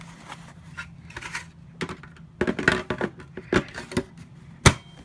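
Irregular clicks and knocks of hard plastic vacuum parts being handled, with one sharp snap near the end.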